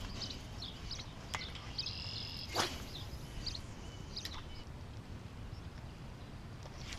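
Outdoor ambience of short bird chirps over a steady low wind rumble on the microphone, with one sharp swish about two and a half seconds in.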